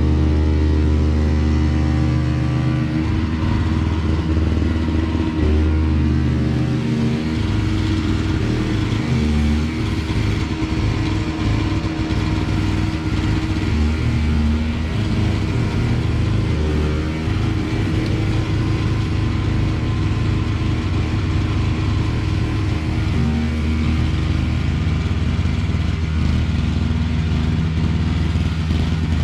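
Small gas snowblower engine running steadily, its note shifting a few times as the load changes while it clears snow.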